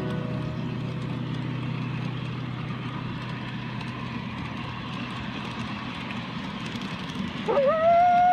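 A small backyard locomotive running along its track, a steady drone with light clicking. About seven seconds in a horn sounds, one held note that slides up as it starts.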